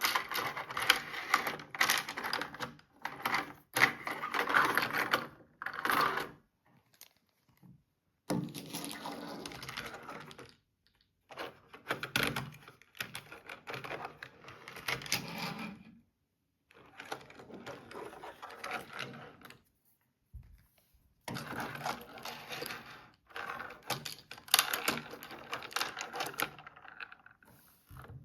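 Hard plastic toy pieces and small die-cast toy cars being handled, with dense irregular clicking and clattering in short runs that stop dead several times.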